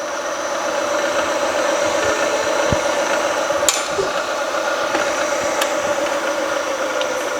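Drill bit cutting into a hardened steel crankshaft in a milling machine, spindle running under load: a steady cutting noise with a held tone and a few sharp clicks.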